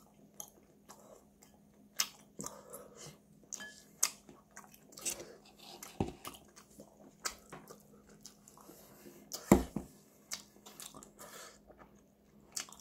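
A person chewing sundae (Korean blood sausage) close to the microphone: irregular mouth clicks and smacks, the loudest about two seconds in and again near the end, over a faint steady hum.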